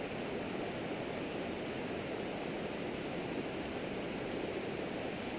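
Steady rushing of a flowing river, an even hiss with no breaks.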